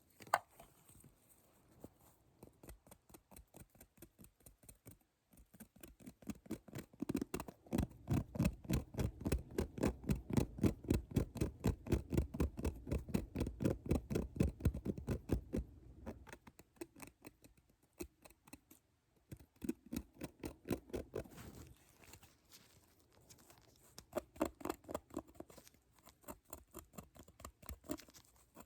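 Rapid, rhythmic ASMR tapping, several light taps a second. The taps grow louder and fuller in the middle stretch, then ease off again.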